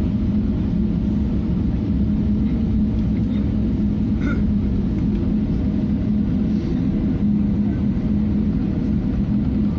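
Steady low rumble of a Boeing 777 cabin heard from inside, with a constant drone from the engines and airframe.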